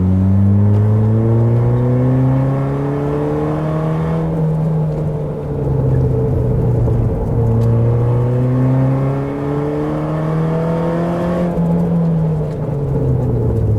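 Car engine accelerating through the gears. The note climbs for about four seconds and drops back at a gear change. After a dip it climbs again from about seven seconds in, then falls away near the end as the car eases off.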